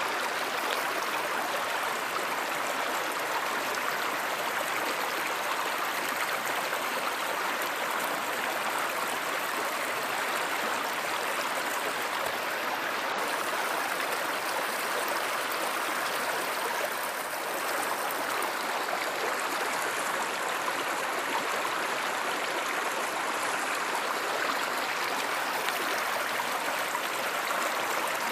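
A river or stream flowing, with a steady, even rush of water.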